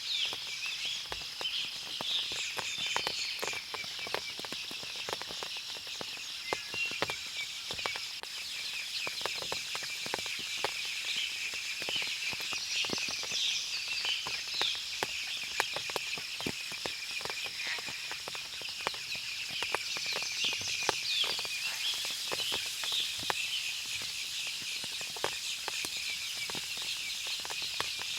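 Forest ambience after rain: many birds chirping and calling over a steady high insect-like hum, with frequent small taps of water dripping throughout.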